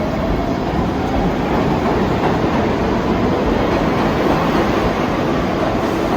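New York City subway train (3 train) running, a loud steady rumble with wheels clattering on the rails. Near the start, a motor whine rises in pitch as the train picks up speed.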